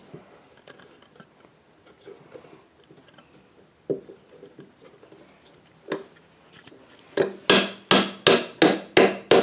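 Hammer driving a nail into cedar fence-picket wood: two single taps, then from about seven seconds in a quick run of loud, even blows, about three a second.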